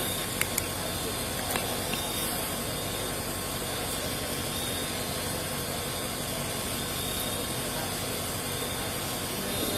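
Steady hissing background noise, with a few light clicks about half a second and a second and a half in.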